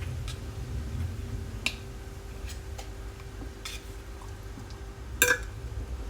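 Light clicks and taps of metal cutlery and dishes, with a louder clatter about five seconds in, over a steady low hum.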